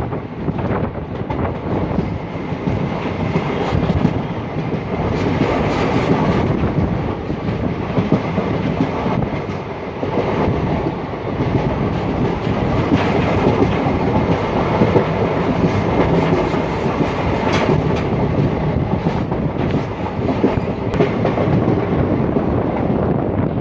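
Indian Railways passenger train running along the track, heard from the coach: a steady rumble from the wheels and coaches, with the wheels clattering over the rail joints.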